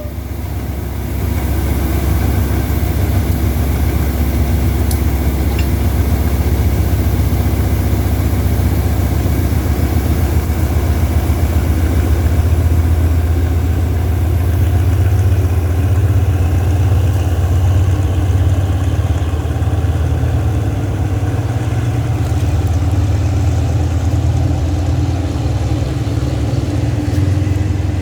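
General Electric CM22-7i diesel-electric locomotive's engine running steadily with a loud, low rumble.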